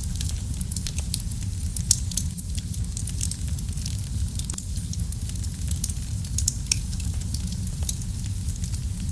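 Wood fire burning in a fireplace: a steady low rumble of the flames with frequent sharp, high crackles and pops from the burning logs, one louder pop at about two seconds.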